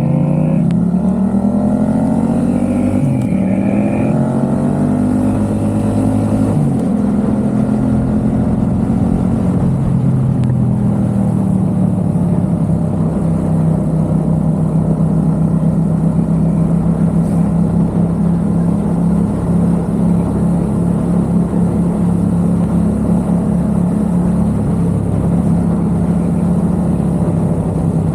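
Yamaha XSR700's parallel-twin engine through a MiVV exhaust, ridden on the road: the revs rise and fall several times over the first ten seconds or so, then hold steady at cruising speed.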